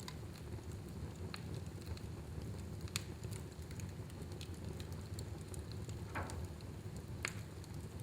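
Fire burning in a fireplace: a steady low rumble with scattered crackles and pops, the sharpest about three seconds in and near the end, and a brief hiss about six seconds in.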